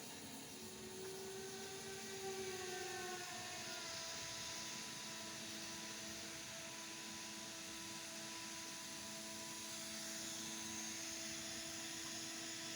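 EMD SD40-2 diesel locomotives running, a steady mechanical drone of several held tones over a rushing hiss, the tones wavering slightly in pitch during the first few seconds.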